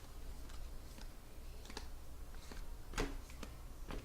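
Trading cards being handled and shuffled through by hand: a few light, irregular clicks and taps of card stock against card stock and hard plastic holders.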